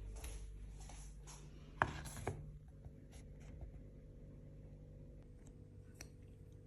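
Kitchen food-prep handling: a few short scraping strokes, then two sharp knocks about two seconds in, followed by faint light clicks.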